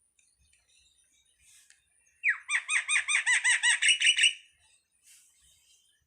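A jalak (starling) calling: a rapid run of about a dozen arched, rising-and-falling notes, roughly six a second, lasting about two seconds.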